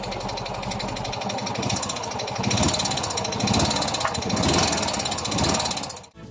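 Yamaha Mio i 125 scooter's single-cylinder engine running with a fast metallic knocking and ticking, getting louder about two seconds in. The noise is the fault the mechanic sets out to trace: a tick from the cylinder head and piston slap in the block. The sound cuts off suddenly near the end.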